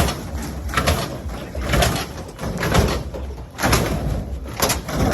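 A run of sharp bangs and clatters, roughly one a second, over a steady low rumble.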